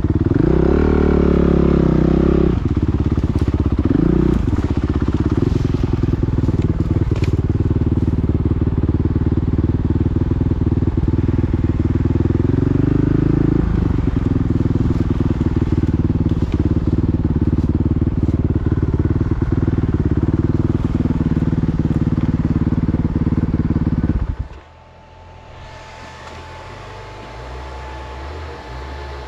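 Motocross motorcycle engine running loud and close, revving up near the start and again briefly about four seconds in, then holding a steady note. About twenty-four seconds in the engine sound stops abruptly, leaving only a faint steady hum.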